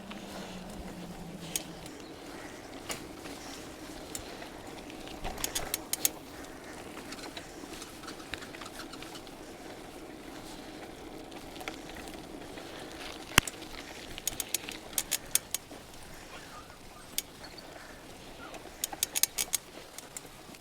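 Bicycle rolling over a soft forest track, with a steady low rumble and several bursts of quick clicking.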